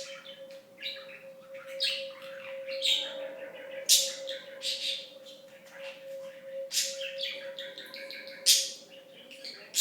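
Pet budgerigar chattering and warbling: a rapid run of chirps with sharp, loud calls about four seconds in and again near the end, over a steady faint tone.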